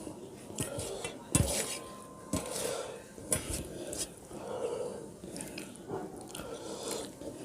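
Plates and eating utensils clinking and scraping during a meal, in several separate sharp knocks about a second apart.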